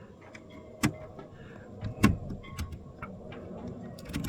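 Sharp clicks and knocks of a boat locker hatch and its latches being worked, stiff latches that need greasing; the loudest knock comes about two seconds in, with a quick cluster near the end.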